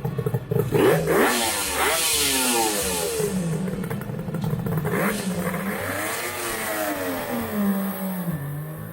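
Custom cafe racer motorcycle engine being revved: the throttle is blipped so the engine note climbs sharply about a second in and again around five seconds in, then sinks back toward idle near the end.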